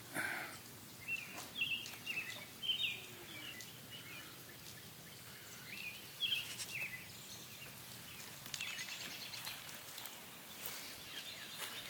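Birds chirping in short, separate calls over a steady outdoor background hiss, with a few faint clicks later on.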